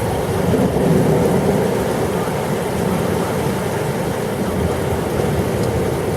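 Heavy thunderstorm rain falling as a steady, low rushing noise.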